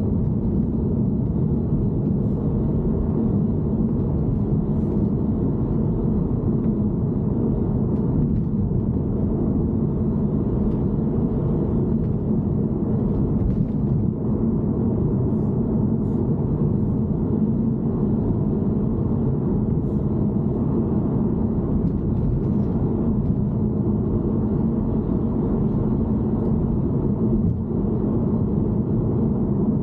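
Steady low rumble of a BMW E90 3 Series heard from inside the car, with a few faint, irregular ticks over it.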